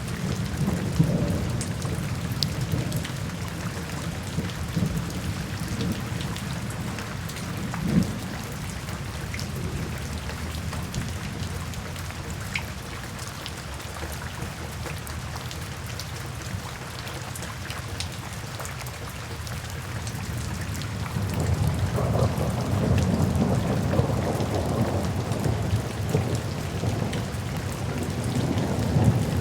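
Steady rain falling, with low rolling thunder that eases off in the middle and swells up again about two-thirds of the way through.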